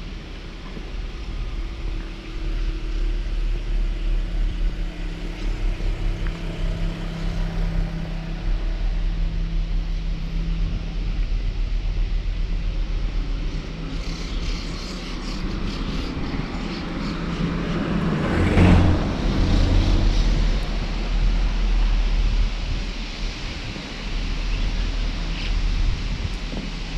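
Road traffic going by with a steady low rumble and engine hum. One vehicle passes close about two-thirds of the way through, swelling and then fading.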